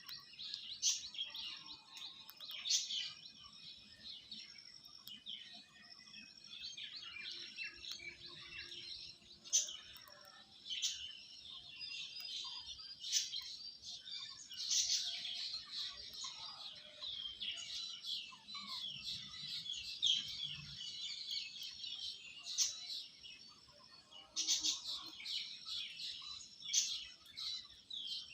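A flock of birds chirping and chattering continuously, many high calls overlapping, with louder sharp calls every second or two.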